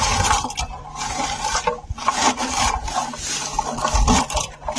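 Hands stripping wild lingonberries off low forest shrubs: leaves and twigs rustle and rub in repeated bursts about a second apart.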